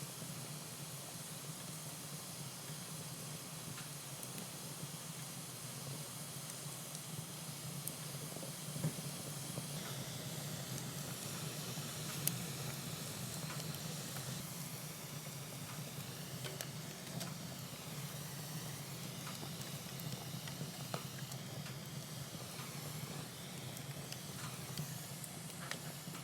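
Wood fire in a fireplace, a burning hollow twig hissing steadily, with a few single sharp crackles.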